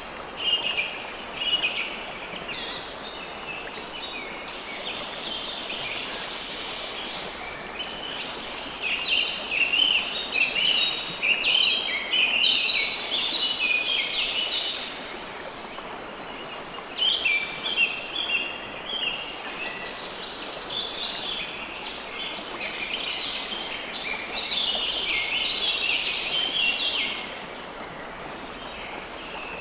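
River water flowing steadily, with birds chirping over it in quick runs of short high notes. The chirping comes in two busy spells, one through the middle and one stopping shortly before the end.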